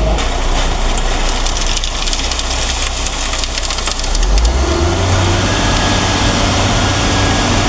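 Heavy vehicle engine running steadily, revving up about four and a half seconds in.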